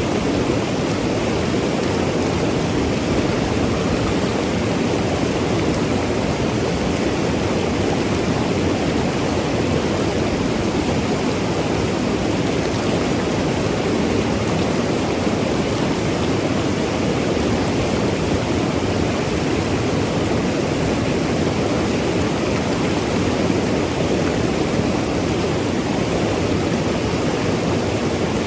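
Mountain river rushing and gurgling over rocks, a steady, even rush of water with no changes.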